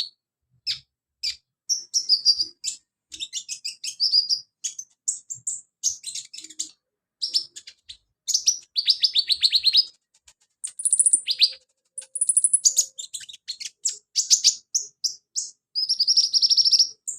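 Brown-throated sunbird (konin or kolibri ninja) singing a fast, varied song of high chirps, trills and buzzy phrases, with short pauses between phrases. The song is full of fill-in phrases ('isian') of the kind keepers use as a lure to set other sunbirds singing.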